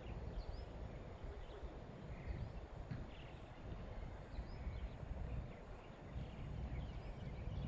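Outdoor ambience: wind rumbling on the microphone, with scattered faint high chirps.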